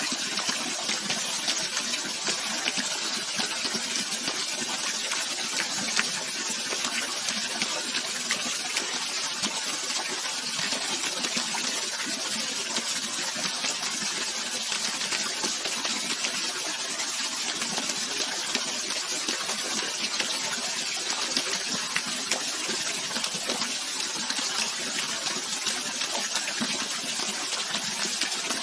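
Flowing water rushing steadily, with fine splashing.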